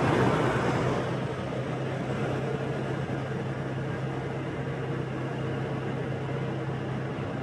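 Motorbike riding along a city street: a steady engine hum under road and wind noise, a little louder in the first second.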